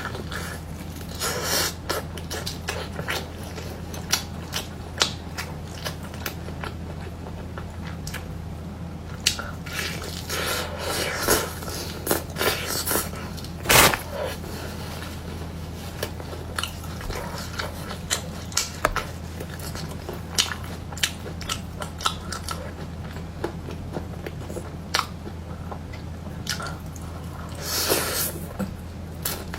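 Close-miked chewing and biting of food: irregular wet smacks and crisp crunches, with one sharp loud crunch about halfway through. A steady low electrical hum runs underneath.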